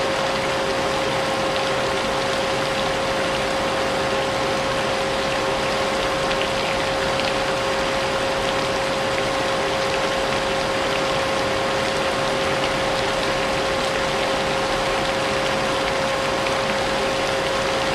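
Vacuum cleaner running steadily, a constant motor whine over dense rushing air, mixed with the hiss of falling rain.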